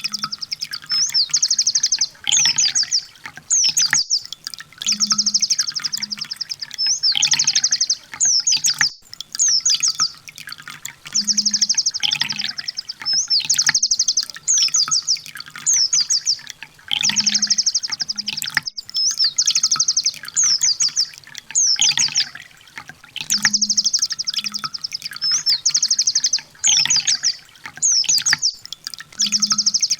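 Sunbird song in 'tembakan' style: a fast, high buzzy trill of about a second followed by a few sharp chirps. The same phrase comes back about every six seconds, as in a looped masteran recording for training caged birds.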